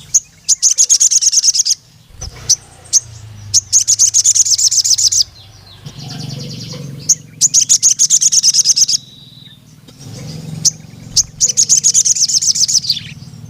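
Crimson sunbird (sogon) singing: four long, fast trills of high, sharp notes at about ten a second, each lasting one to two seconds, with single high chirps between them. This is the full, rapid song that bird keepers call 'nembak panjang'.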